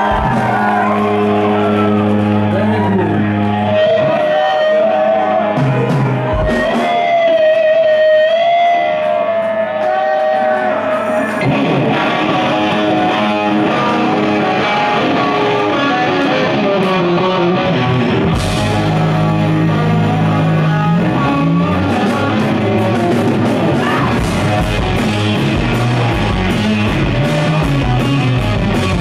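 Rock band playing live: electric guitar with long, bending notes opens the song, the band fills in, and drums come in past the halfway point.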